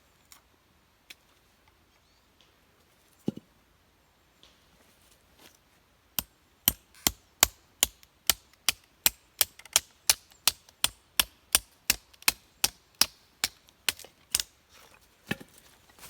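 A hand tool striking hard in a quick steady run of sharp blows, close to three a second for about eight seconds, after a few scattered knocks; one last blow near the end.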